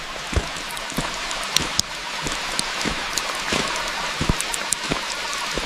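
Steady rain falling, with many separate drops striking close by as sharp, irregular taps over the constant hiss.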